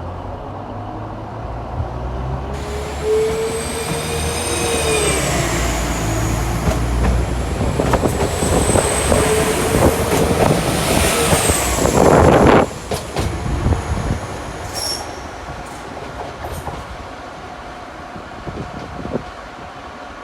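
Train moving along the platform track with a low rumble and high wheel squeal on the rails that rises and falls in pitch. About twelve seconds in there is a short loud hiss, after which the sound fades.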